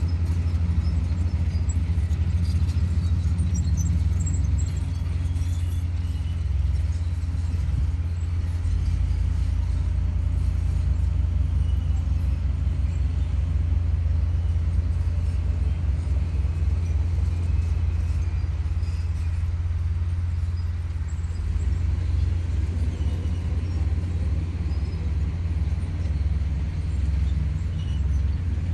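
Komatsu D58E bulldozer's diesel engine running steadily under load, a deep low rumble, with faint scattered metallic clinks above it.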